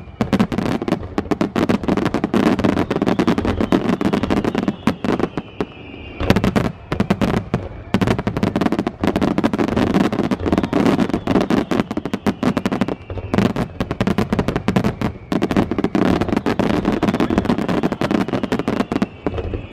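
Aerial fireworks display: a dense, rapid run of crackling and popping bursts with heavier bangs among them, and a faint falling whistle at times.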